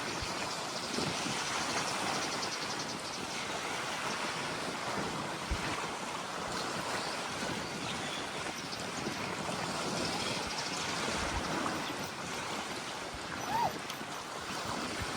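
Steady wash of sea waves on the shore with wind on the microphone, and a brief short sound near the end.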